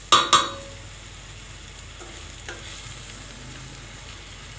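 Green fava beans and garlic frying in a pot with a steady sizzle. Two sharp clanks of the stirring spoon against the pot right at the start, and a lighter tap about two and a half seconds in.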